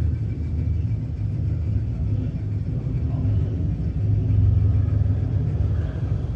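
Steady low rumble that swells a little about four seconds in.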